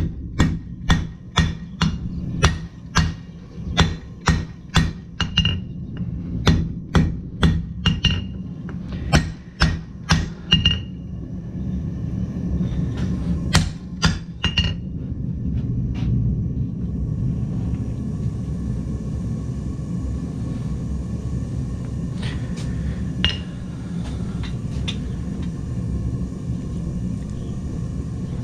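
Blacksmith's hammer striking steel on an anvil in a steady rhythm of about two blows a second, each with a bright metallic ring; the hammering stops about eleven seconds in, a few single blows follow, and then a steady rushing noise carries on with occasional light taps.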